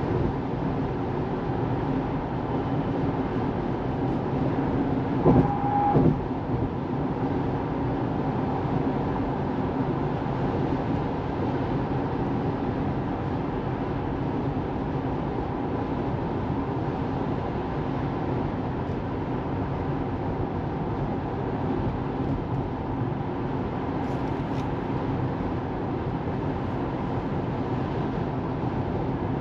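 Steady road and tyre noise of a Tesla Model 3 driving, with no engine sound, since the car is electric. About five seconds in, two short sharp clicks and a brief tone stand out above it.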